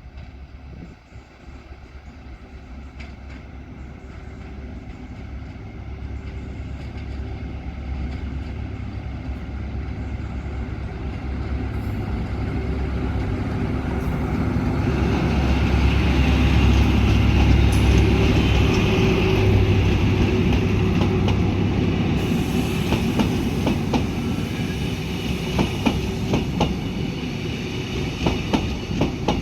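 A train approaching and passing: a low rumble grows steadily louder, at its loudest a little past halfway. It is followed by a run of quick clacks as the wheels go over the rail joints.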